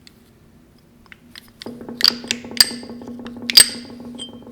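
Steel gearbox parts clinking and ringing as they are handled and set down on the bench, several sharp metallic chinks in the second half, over a steady low hum.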